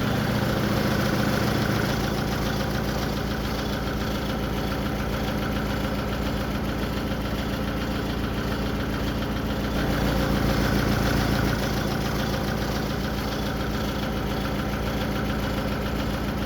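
Heavy diesel engine of earthmoving machinery running steadily, swelling louder briefly near the start and again about ten seconds in.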